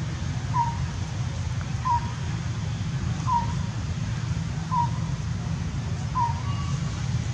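A bird calling a single short whistled note over and over, five times, about once every second and a half, over a steady low rumble.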